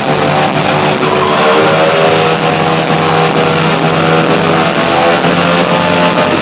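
Motorcycle engines running steadily, the riders circling inside a steel globe-of-death sphere.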